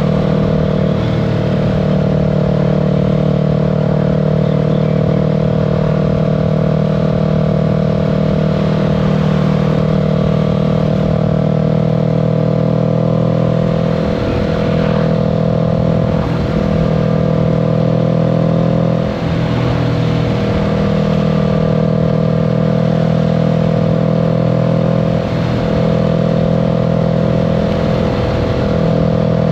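Kawasaki Z650 parallel-twin engine running at a steady cruise, with a few brief dips in pitch past the middle and near the end.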